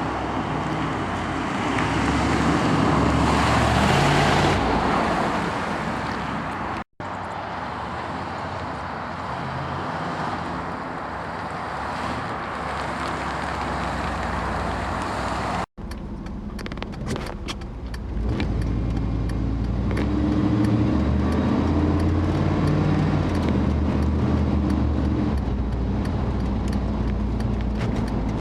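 Exhaust of a 5.7 L 350 TBI small-block Chevy V8 through a Walker SoundFit muffler, the engine running at changing speeds across three short clips. Light clicks tick along in the last clip.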